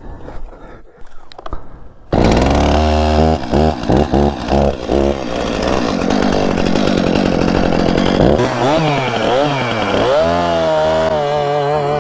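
A two-stroke chainsaw starts about two seconds in and is blipped a few times. It is then held at full throttle cutting through a fallen tree, with the revs swooping down and up and settling lower near the end.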